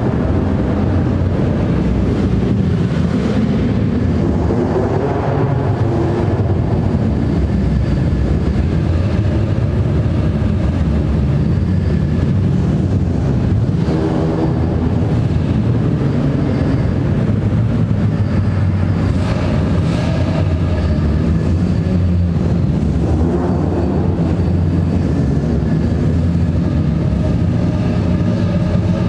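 Engines of a procession of tuned Japanese cars rumbling as they crawl past one after another in an underground car park, with a few brief rises in revs.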